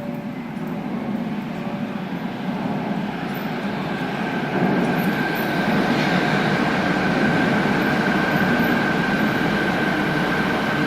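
Fukuoka City Subway Nanakuma Line linear-motor train pulling into the station: a rumble that grows louder and steps up about four and a half seconds in, with a steady high whine that sets in about three seconds in.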